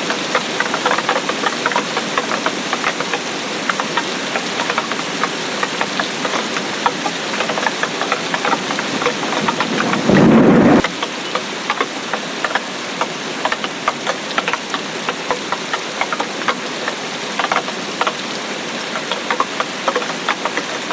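Steady rain, a dense patter of individual drops striking a surface. About halfway through, a loud low burst lasting under a second starts and stops abruptly.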